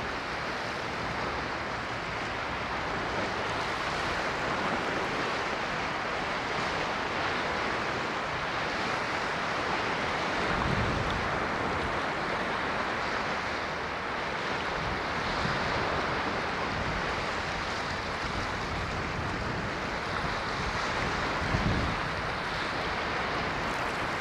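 Ocean waves washing on a shore as a steady rushing hiss, with a couple of brief low thumps, about halfway through and near the end.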